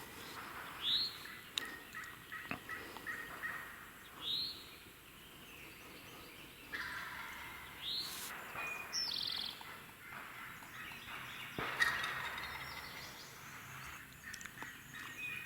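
Wild turkey gobbler gobbling twice as it comes closer, each gobble starting suddenly and trailing off, with a few short high bird chirps between.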